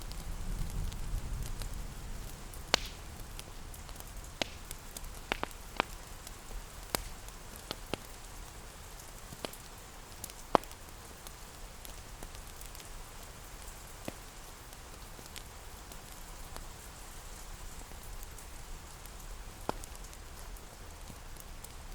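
Steady rain pattering, mixed with a crackling wood fire giving scattered sharp pops, most of them in the first half and the loudest about halfway through. A low rumble fades out in the first two seconds.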